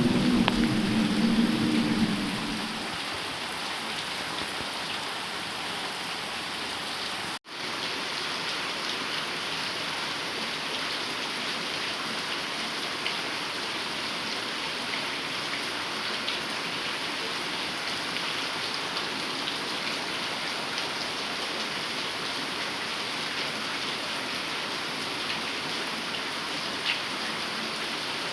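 Heavy rain falling steadily, with a low rumble in the first two seconds or so and a momentary break in the sound about seven seconds in.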